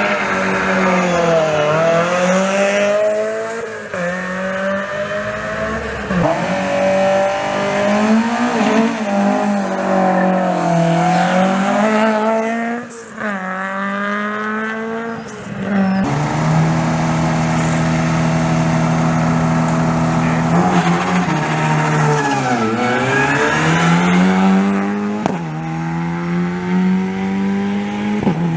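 Rally car engine at a special-stage start, revved up and down again and again, then held at steady high revs for about five seconds past the middle before dropping and climbing once more.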